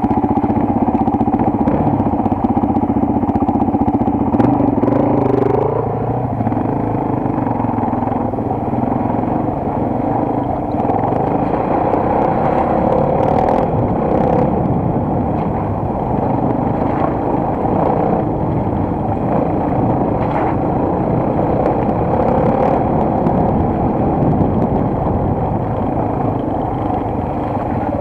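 Single-cylinder four-stroke enduro motorcycle engine running steadily, with a few light clicks and rattles over it.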